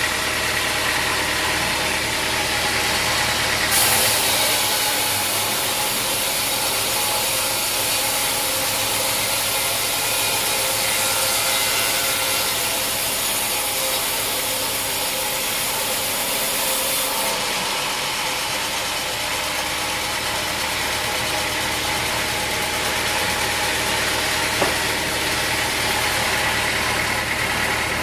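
Sawmill engine running steadily. About four seconds in, a loud high hiss of sawing through wood starts, lasts about thirteen seconds and stops abruptly.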